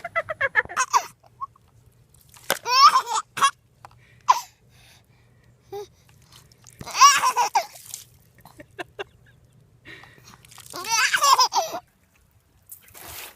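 Laughter in four short bursts, the first a quick run of pulsed laughs.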